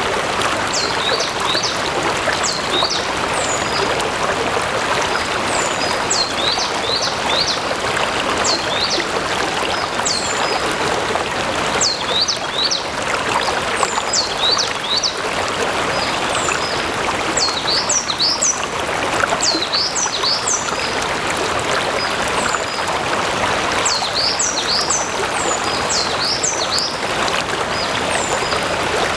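Stream water flowing and splashing steadily, with a bird chirping over it in short clusters of high, quick notes that recur every second or two.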